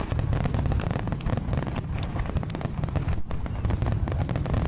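Fireworks display: many rapid crackling pops and bangs over a steady low rumble.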